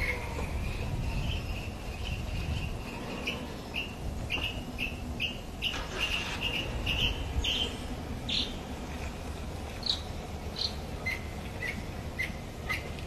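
A bird calling with a run of short high chirps about two a second, then a few lower chirps near the end, over a steady low rumble.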